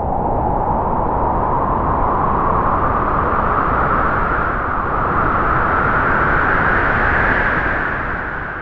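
A loud rushing noise, its pitch rising slowly, that begins to fade near the end.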